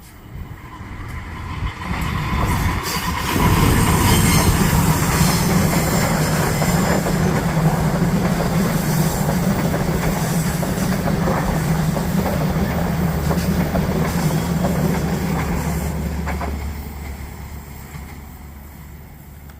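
Passenger train passing close by, its wheels rumbling and clattering on the rails: the sound builds over the first few seconds, stays loud for about twelve seconds, then fades away.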